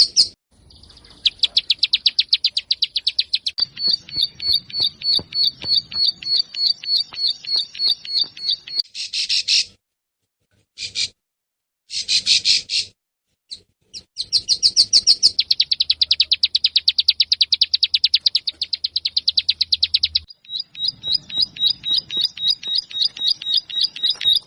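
Ciblek sawah, a prinia, singing long runs of quick, high, repeated chirps, broken twice by brief dead silences.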